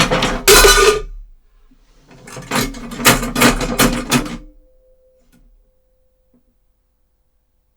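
Foley footsteps on wooden boards with a cowbell and a metal coaster clattering along for a metallic sound: a quick run of steps, a pause, then a longer run of steps, ending in a short metallic ring that fades out.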